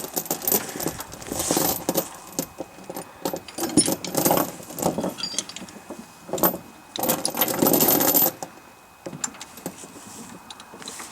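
Steel tie-down chain being handled, its links rattling and clinking irregularly as it is wrapped and pulled through, with a few louder clanks.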